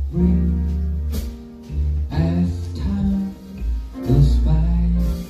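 A live jazz trio playing a slow ballad: plucked guitar over a deep bass line, with a singer's voice in sustained notes.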